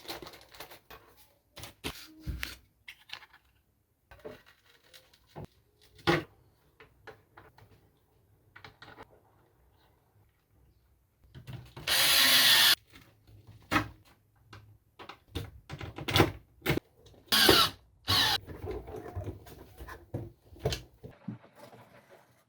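Skateboard being assembled: scattered clicks and knocks of tools and hardware on the wooden deck, with two short, loud bursts of a power drill, about halfway through and again about two thirds through.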